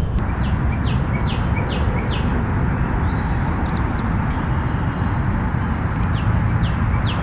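A songbird singing two runs of about five quick, clear down-slurred whistles, one near the start and one near the end, with a few short high chips between. A steady low rumble runs underneath.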